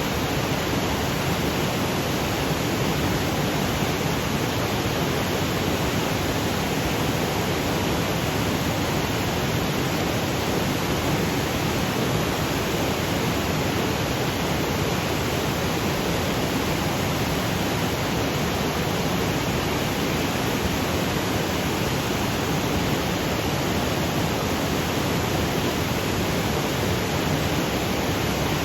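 Waterfall cascading over granite boulders: a steady, unbroken rush of water with no change in level.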